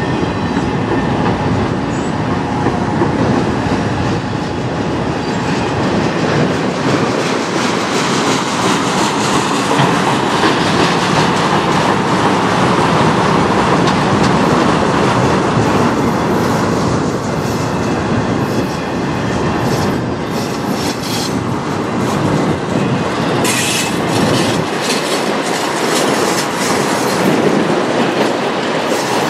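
Autorack freight cars rolling past at close range: a steady rumble and rattle of steel wheels on the rails, with quick wheel clicks and clacks that turn sharper and denser in the last several seconds.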